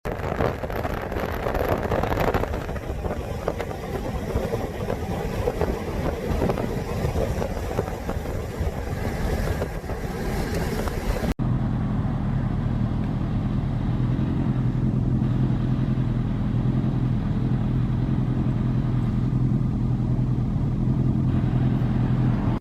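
A rough, rushing noise for the first half. After an abrupt cut, a steady low hum with a deep drone, like a vehicle engine idling.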